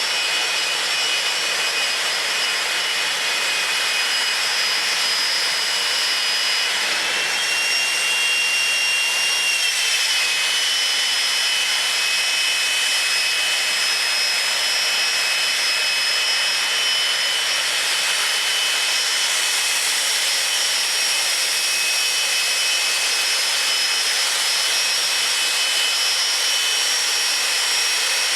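Jet engine of a drag-racing jet vehicle running steadily with a high whistling whine. The whine shifts up in pitch about seven seconds in and settles again a few seconds later.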